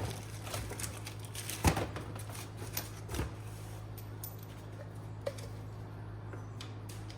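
Scattered light clicks and clinks of U-bolt nuts and washers being handled from a hardware kit, the loudest knock about a second and a half in, over a steady low hum.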